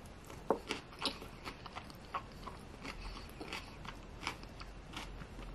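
A person chewing a mouthful of sushi roll close to the microphone: irregular small clicks and crackles of the mouth at work, starting about half a second in.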